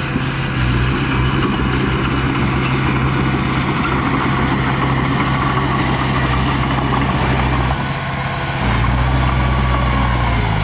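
Diesel engine of heavy earthmoving machinery running steadily under a wash of mechanical noise. The engine note shifts and grows stronger in the low end near the end.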